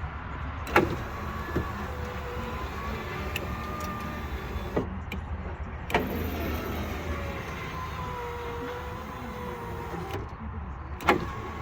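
Electric window motor and replacement regulator in a Nissan Skyline R34 GTT's driver door, running the glass through its travel on test after the swap. It gives a steady whine that wavers slightly in pitch, with sharp clicks about a second in, about halfway and near the end as each run starts or stops.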